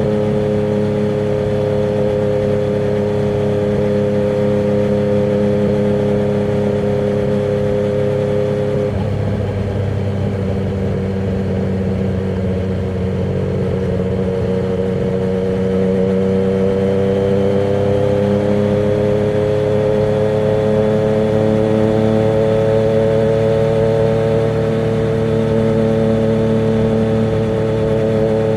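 Yamaha MT-09's three-cylinder engine through a Termignoni exhaust with the dB killer removed, ridden on the road. It holds steady revs, changes abruptly about nine seconds in, dips, then climbs slowly in pitch through the rest as the bike gains speed.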